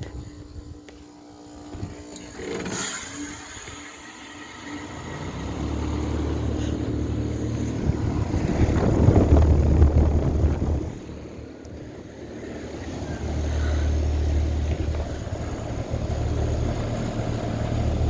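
2017 Carrier Sentry heat pump outdoor unit coming out of its defrost cycle. There is a brief hiss about three seconds in, then about five seconds in a steady low machine hum sets in as the unit goes back to heating, with a louder rushing stretch around the tenth second.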